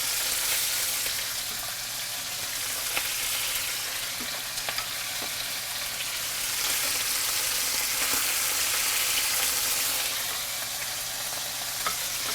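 Skinless boneless chicken thighs sizzling in hot olive oil in a skillet as they brown, a steady hiss with a few small pops and clicks.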